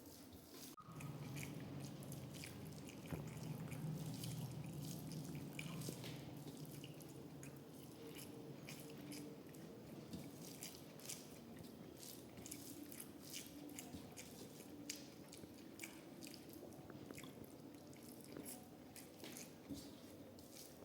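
A person chewing and eating a meal of rice and fish curry, with many small wet mouth clicks and smacks. A faint low hum sits under the first several seconds.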